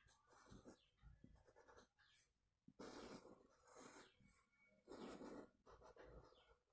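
Faint scratching of a kolam being drawn stroke by stroke: a run of short rasping strokes, about half a second each, with brief pauses between them.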